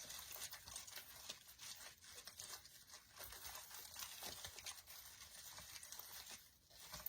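Faint rustling and crinkling of artificial pine greenery and wired stems being handled and pushed through the leaves, with scattered small ticks.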